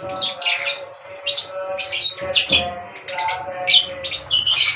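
Several birds chirping in quick, overlapping calls, several a second, over a steadier lower pitched sound.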